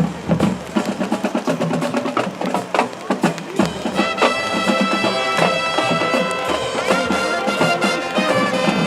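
High school marching band playing: drum strokes under the brass at first, then from about four seconds in the brass section holds sustained chords.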